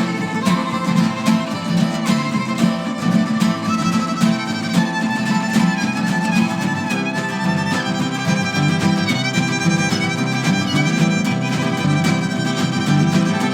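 Live band playing an instrumental passage: a sustained lead melody with vibrato and slides over rhythmic acoustic accompaniment.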